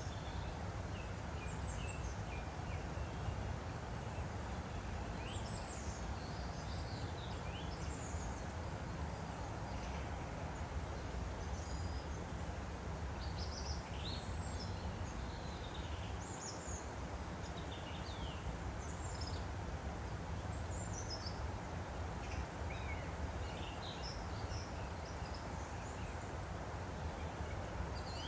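Woodland stream flowing steadily, with small birds calling and singing in many short high chirps over it.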